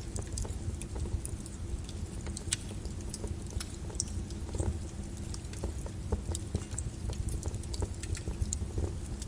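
Flowing lava crackling and popping irregularly over a steady low rumble.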